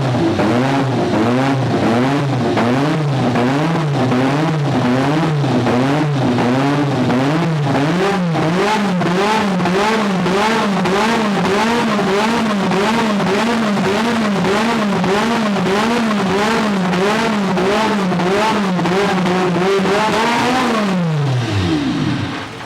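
The Williams FW11's Honda 1.5-litre turbocharged V6 Formula One engine is being warmed up. The throttle is blipped over and over, so the revs rise and fall about once a second. Near the end the engine is switched off and the revs fall away quickly.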